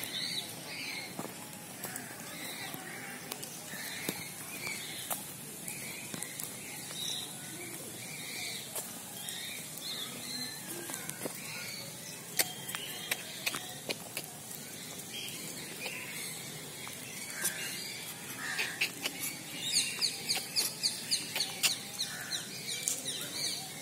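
Birds chirping repeatedly with short high calls, then a quicker run of sharp, louder chirps near the end.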